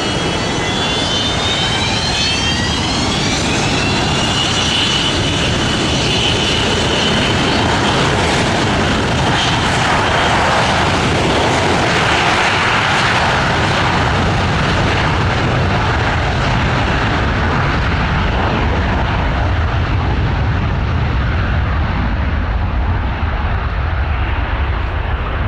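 Boeing 727's three JT8D low-bypass turbofans at takeoff power. A whine climbs in pitch over the first few seconds and then holds steady under a loud roar. The roar is strongest around the middle, then loses its high end and fades to a low rumble as the jet climbs away.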